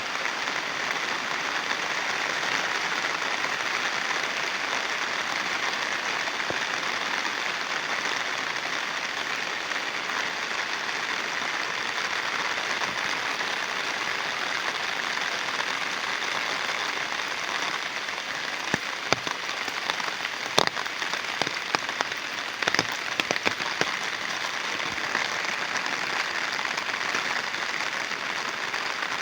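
Heavy rain falling steadily, with a scattering of louder sharp taps about two-thirds of the way through.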